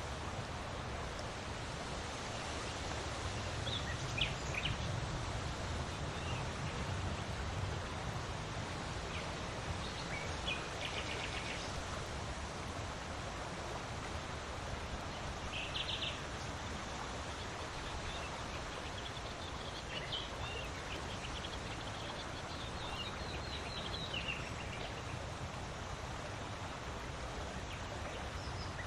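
Steady wind blowing, with a low rumble underneath, and a few short bird chirps now and then.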